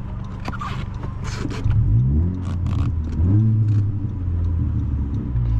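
Honda Civic Si's turbocharged four-cylinder engine pulling under throttle. After a steady hum, the engine note gets louder and climbs in pitch from about two seconds in, dips briefly near three seconds as at a gear change, then climbs again and levels off.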